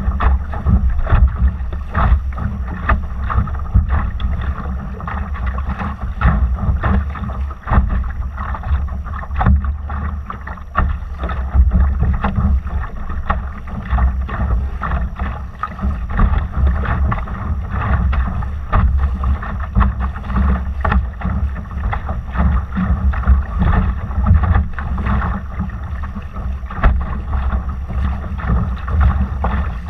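A Laser sailing dinghy under way: a heavy wind rumble on the microphone, with constant irregular splashes and slaps of water against the hull.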